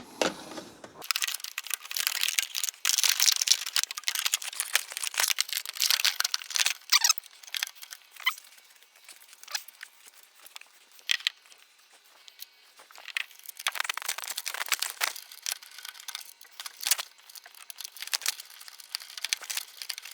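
Thin sheet-metal exhaust heat shield scraping and crinkling as it is forced and worked into place, in irregular bursts of rustling scrapes and sharp scratches.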